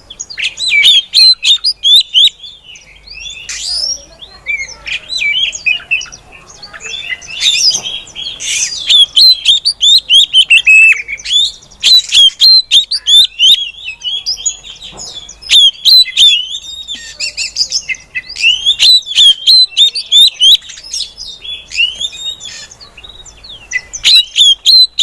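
Female oriental magpie-robin calling: bursts of rapid, sharp chirps, several a second, broken by short pauses.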